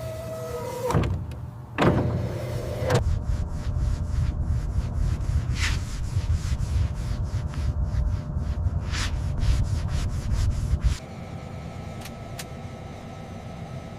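Fast, even abrasive rubbing strokes, like sanding, over a steady low rumble. The rubbing stops abruptly about eleven seconds in.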